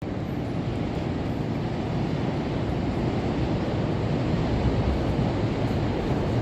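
Steady outdoor background rumble and hiss, mostly low-pitched and unbroken: wind on the microphone over the hum of a city riverside.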